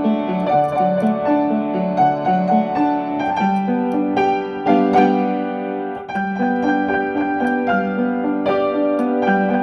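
Piano music, an instrumental keyboard piece with a stepping bass line under held chords that change about three and a half seconds in.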